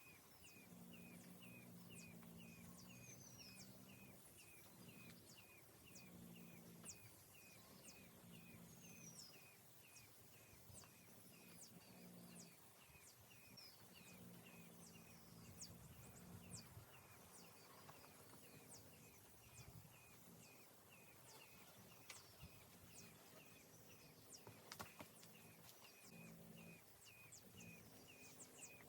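Faint outdoor wildlife sounds: a small creature's short high chirp repeating about twice a second, with scattered higher bird-like calls. A low droning tone comes and goes underneath.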